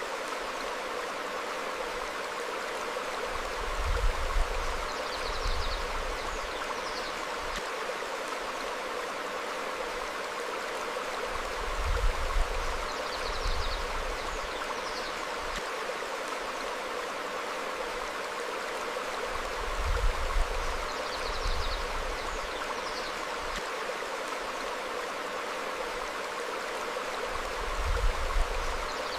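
Steady rushing of a small stream flowing over rocks. A low rumble swells briefly about every eight seconds. Short high bird chirps come a few times, in pairs.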